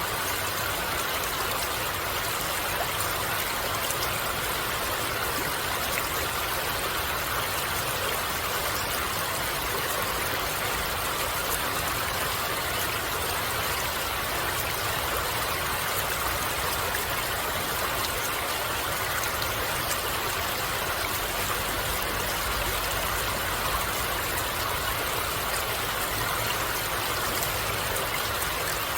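Water flowing in a stream, a steady even rush.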